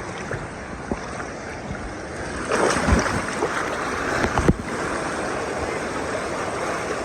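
Ocean surf washing in shallow water, with a louder rush of water about two and a half seconds in and a couple of sharp bumps near the middle.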